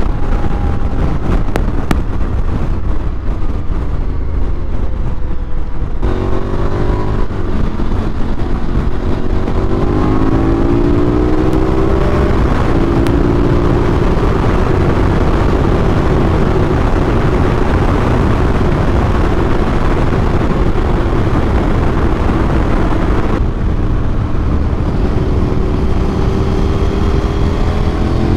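Adventure motorcycle engine under way: it eases off, then pulls up through a few gear changes, holds a steady cruise, and picks up again near the end. Heavy wind buffeting on the microphone runs under it.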